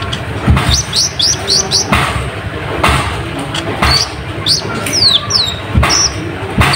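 Konin (kolibri ninja) sunbird singing busily: quick runs of high, sharply falling chirps, the fastest burst about a second in, with low thumps scattered between them.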